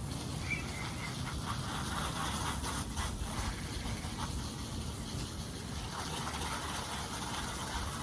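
Water spraying steadily onto a wire rabbit cage during cleaning, a continuous gushing hiss.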